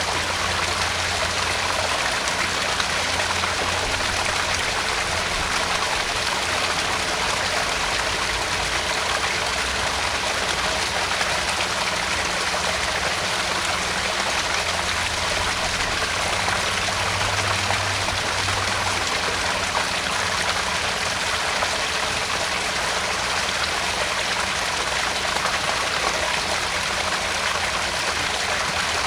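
Small garden pond waterfall: water pouring and splashing into the pond in a steady, unbroken rush.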